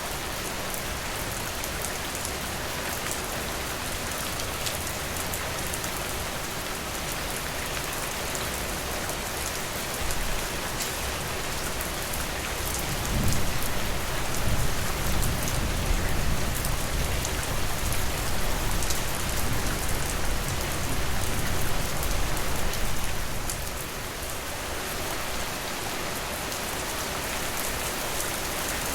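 Steady rain falling in a dense, even patter. About halfway through, a low rumble swells in beneath it for some ten seconds and then fades away.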